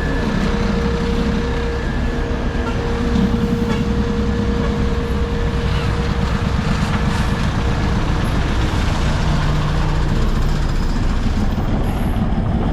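Heavy road vehicles' engines running steadily, with a low rumble and a steady hum, amid passing traffic on an asphalt road-works site.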